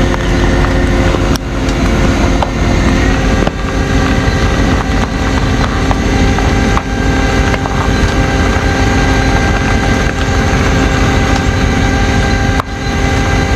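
A vehicle engine running steadily at constant speed, with a few faint clicks.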